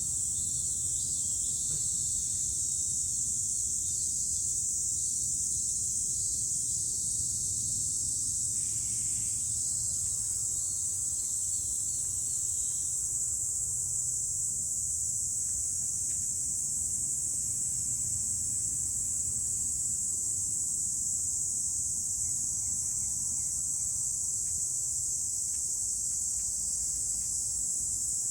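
Cicadas singing in a steady, unbroken chorus of high-pitched buzzing.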